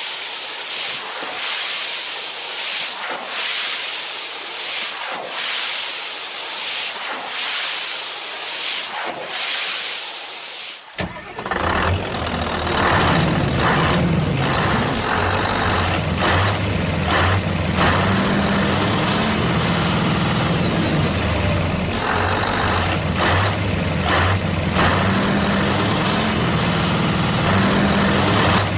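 A hissing noise that swells and fades about once a second, then an abrupt change about 11 seconds in to a truck engine running with a steady low drone.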